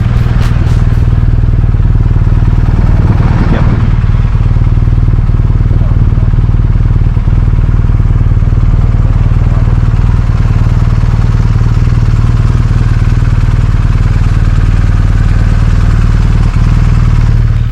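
BMW R 1250 RT boxer-twin motorcycle on the move at a steady speed, its engine note held even, with a constant rush of wind and road noise.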